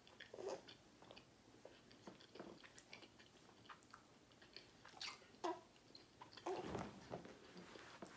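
Faint chewing of a chewy, fruit-leather-like sprouted flaxseed banana bar: soft mouth clicks and wet smacks at irregular moments, with a muffled low bump about two-thirds of the way through.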